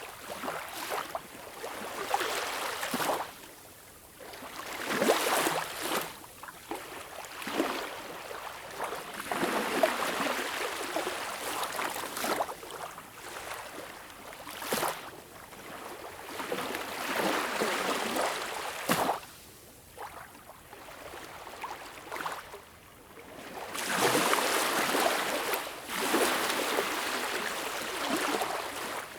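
Small, calm waves lapping and washing onto a beach, each splash swelling and falling away every few seconds, with brief quieter lulls between them.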